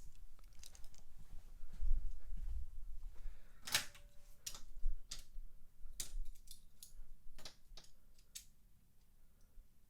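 Scattered sharp plastic clicks and knocks of die-cast toy cars and track parts being handled, with a brief low rumble about two seconds in.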